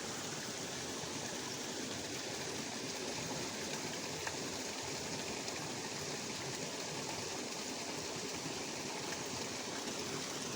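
Fast rain-swollen water rushing steadily along a ditch.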